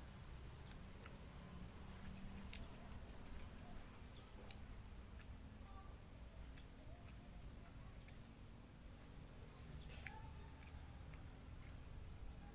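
Faint, steady high-pitched insect chorus, with a few soft scattered clicks over it.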